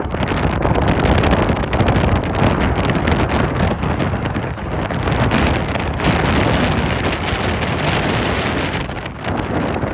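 Boeing 737-800 jet engines (CFM56) at take-off power, a continuous roar mixed with heavy wind buffeting the microphone.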